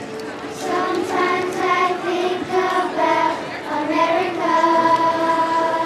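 Children's choir singing a song in unison, moving through short sung notes and then holding one long note from about four and a half seconds in.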